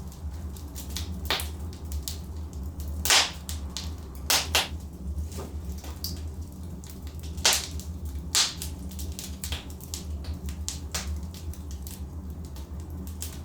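Logs burning in a fireplace, crackling with frequent small pops and a few sharp, loud snaps, the loudest about three seconds in and again about four and a half and seven and a half seconds in, over a steady low hum.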